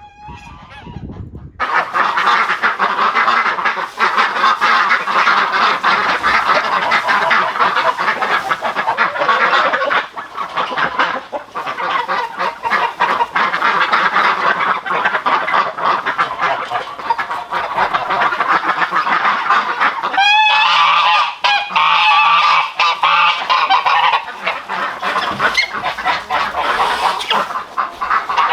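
A flock of domestic geese and ducks honking and quacking all together, in a dense, continuous din that starts abruptly about two seconds in.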